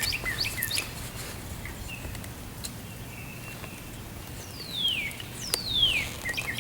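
Birds calling: a few short chirps at first, then two long whistles that slide down in pitch near the end. A couple of faint clicks are also heard.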